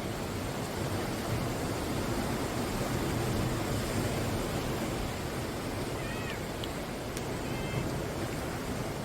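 Sea waves washing steadily onto the shore, an even rushing surf. A few faint, short high calls come through about two-thirds of the way in.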